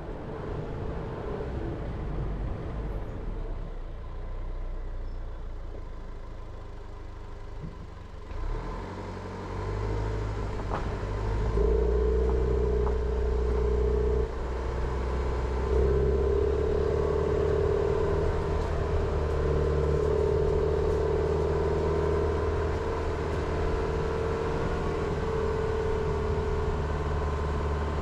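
Jeep Renegade driving, with its engine running and road noise. The engine note is low for the first several seconds, then grows louder and stronger from about ten seconds in, pulling harder. It drops briefly near fourteen seconds and comes back louder about two seconds later.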